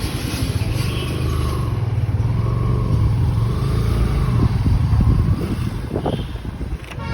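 Motorcycle running on the move: a steady, low engine rumble.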